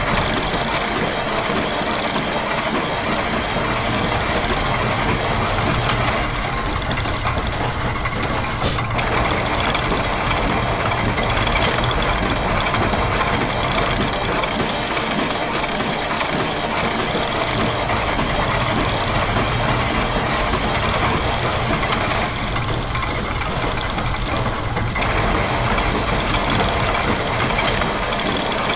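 Layered loops of factory machine sounds, with ratcheting and gear clatter, in a dense, continuous mix. The higher, hissing layer drops out twice for a couple of seconds.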